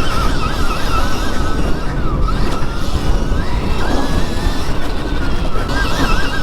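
Stark Varg electric dirt bike motor whining on a motocross track, its pitch rising and falling with the throttle and climbing sharply near the end. Heavy wind buffeting on the helmet or body camera runs underneath.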